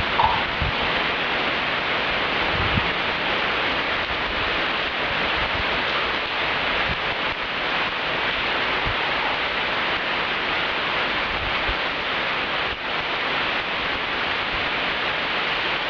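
Heavy rain falling steadily, an even hiss with a few low thumps near the start.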